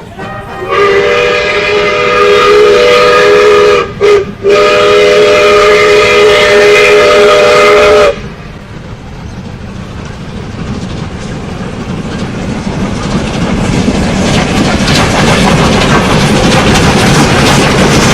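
A train's multi-tone whistle sounds a loud steady chord in two long blasts, split by a brief break about four seconds in. Then the train runs with a rumble and rail clatter that grows louder.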